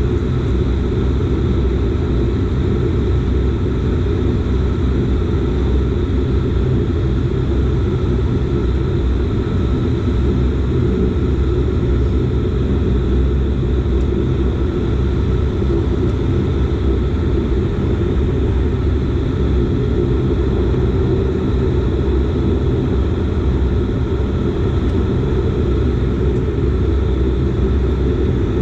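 A Dash 8 Q400's Pratt & Whitney PW150A turboprop engines and propellers running steadily: a loud, even rumble with a few steady whining tones above it.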